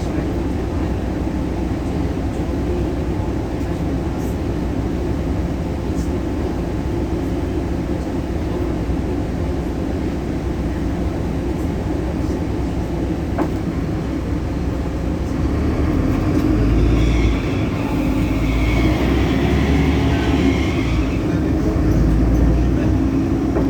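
Solaris Urbino 18 articulated city bus running, its DAF Paccar PR265 diesel engine giving a steady low drone. About two-thirds in it grows louder, with a higher-pitched noise over it for a few seconds.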